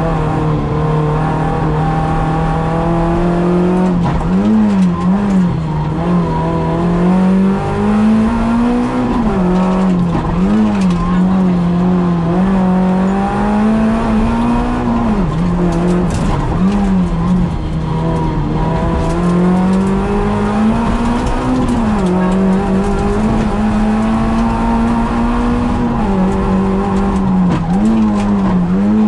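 Peugeot 106 rally car's four-cylinder engine heard from inside the cabin, driven hard, its revs climbing and dropping again and again.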